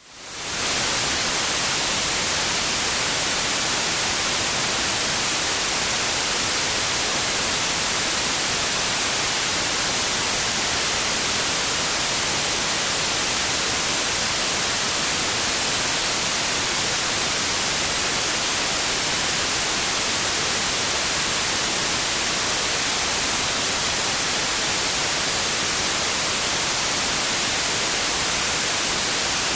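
Steady white noise, an even, unchanging hiss across all pitches, fading in over the first second.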